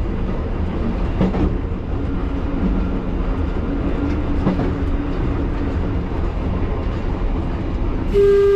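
1938 Tube Stock train running along the track, heard from the driver's cab: a steady rumble of wheels and motors with a faint whine. Near the end a loud steady tone sounds for about a second, with a brief break in it.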